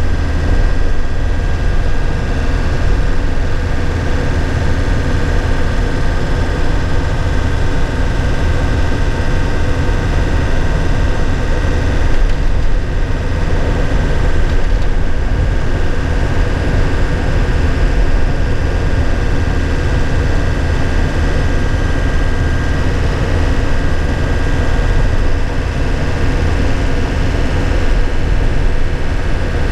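2001 Nissan Cabstar light truck's diesel engine running steadily while driving, heard from inside the cab, with a deep rumble, road noise and a steady high whine over it.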